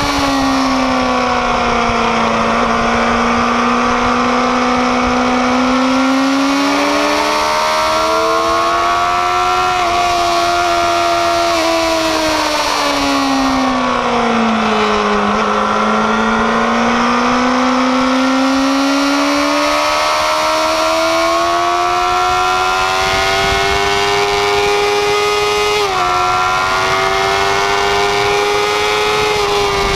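Kawasaki ZX-6R inline-four engine at high revs on track, heard from on board. Its pitch falls as the bike slows around 2 and 15 seconds in, then climbs steadily under hard acceleration, with a brief dip near 26 seconds.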